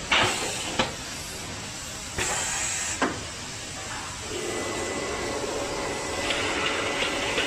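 Machinery on a water heater outer-shell forming line: two bursts of air hissing, each closed by a clunk, then a machine starts running steadily with a whine that gets louder near the end.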